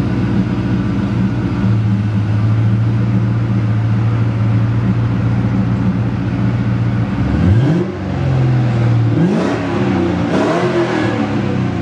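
Ford Mustang GT's 4.6-litre V8 idling steadily through a catless H-pipe and Flowmaster mufflers with no tailpipes, then revved in three quick throttle blips in the last five seconds, each rising and falling back to idle.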